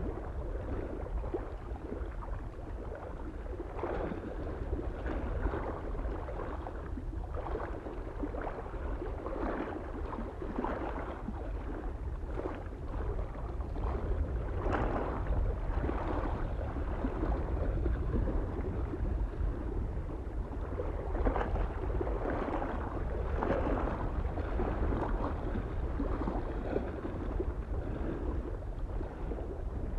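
Small waves lapping and splashing against a lake shore in irregular surges about once a second, over a steady low rumble of wind.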